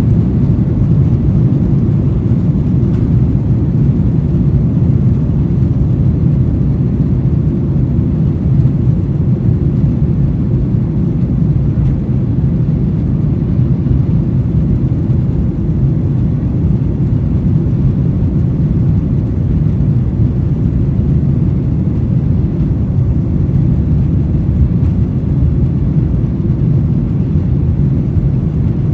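Boeing 737-900 jet engines and airflow at high takeoff or climb thrust, heard from inside the passenger cabin as a steady, deep rushing noise with no changes.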